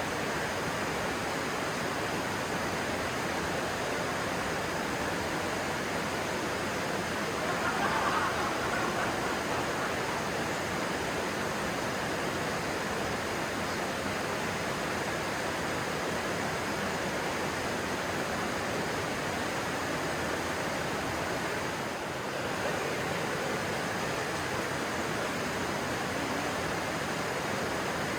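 Rushing stream water: a steady, even hiss, briefly a little louder about eight seconds in.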